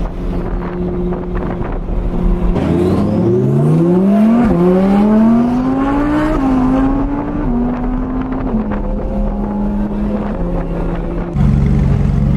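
A car engine accelerating hard, its pitch climbing, with a sharp drop like an upshift and a second climb. It then settles back down in steps. Near the end a louder, deeper engine sound comes in suddenly.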